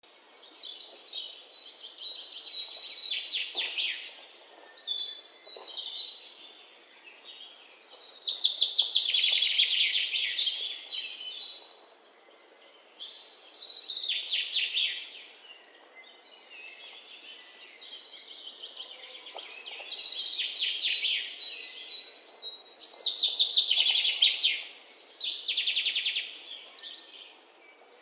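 Songbirds singing: repeated phrases of fast, high chirping trills every few seconds, with short pauses between them.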